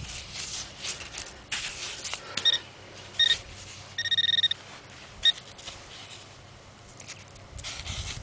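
Handheld metal-detecting pinpointer probing a freshly dug hole in beach sand, giving short beeps at one steady pitch. About four seconds in it gives a fast run of beeps, signalling metal close to the probe. Sand and debris scrape and rustle as the hole is worked.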